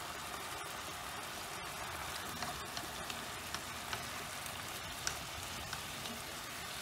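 Stir-fried egg noodles, chicken and vegetables in hoisin sauce sizzling steadily in a frying pan while being tossed with tongs, with a few light clicks of the tongs and spatula against the pan.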